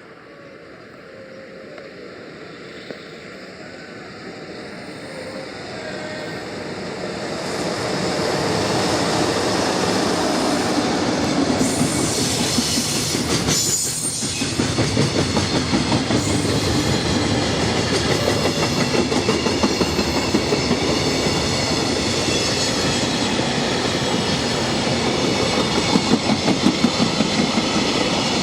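Freight train hauled by a JR Freight EF66 electric locomotive approaching and passing close by. The rumble grows over the first eight seconds, then gives way to the steady clickety-clack of container wagons' wheels over the rail joints.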